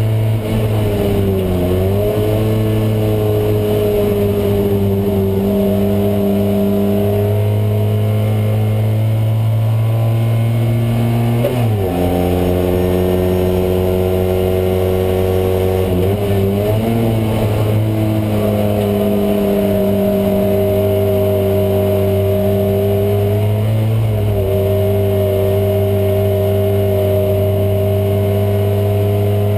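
Fiat 126p race car's air-cooled two-cylinder engine running hard at high revs, heard from inside the cabin, its pitch dipping and climbing again briefly about four times as the driver changes gear and lifts for corners.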